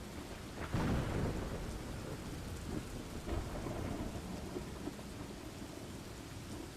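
Steady rain with low rolling thunder, the rumble swelling louder just before a second in and then settling.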